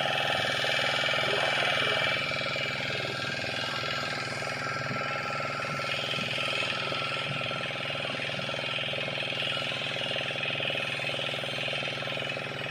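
An engine running steadily, a constant mechanical hum.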